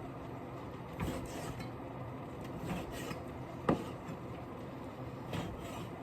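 Kitchen handling sounds over a steady background hum: a few brief rubs and knocks, with one sharp click just past halfway.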